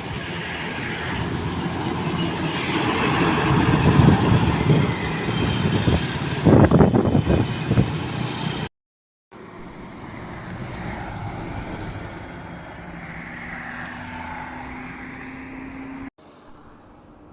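Heavy trucks driving past on a road. A loud pass swells over the first few seconds and peaks around six to seven seconds in, then cuts off abruptly. After the break comes quieter passing traffic, which cuts off again near the end.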